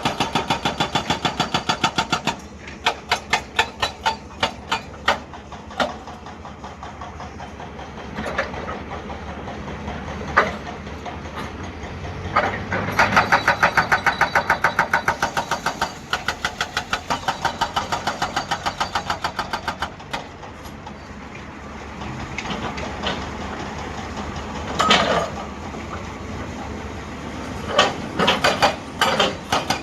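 Hydraulic breaker hammer on a 2007 Hyundai 210 excavator pounding rock in bursts of rapid, evenly spaced blows, with pauses and single knocks between the bursts. The excavator's diesel engine runs steadily underneath.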